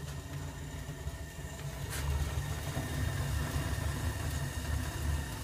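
Furnace starting up: a click about two seconds in, after which a low motor hum grows louder and holds steady.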